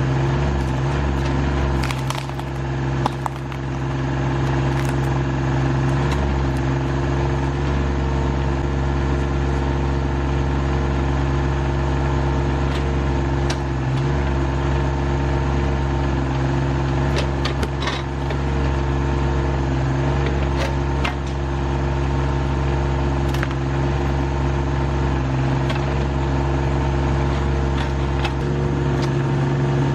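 The engine of an RK25 sub-compact diesel tractor runs steadily while it works a backhoe, with sharp clicks and knocks now and then.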